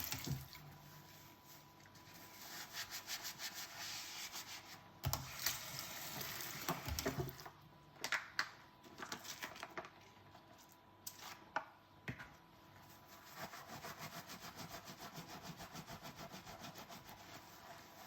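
Dishes being scrubbed with a sponge, in runs of rapid back-and-forth rubbing strokes, about four a second. A few sharp knocks of dishes being handled fall between the runs.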